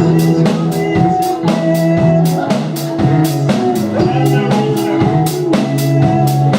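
Live rock band playing at a sound check: a drum kit keeps a steady beat of sharp hits over held bass notes and pitched guitar or keyboard parts.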